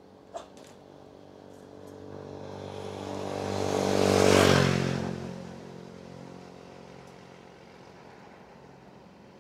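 A motor vehicle passes close by on the road: its engine swells to a peak about four and a half seconds in, drops in pitch as it goes past, then fades away. A short click comes near the start.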